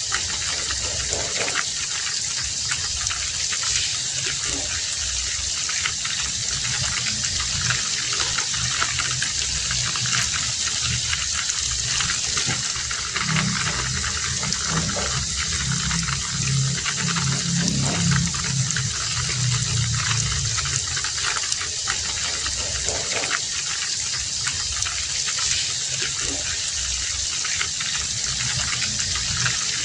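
Heavy rain falling steadily with a dense, even hiss. A low rumble swells under it in the middle and fades again.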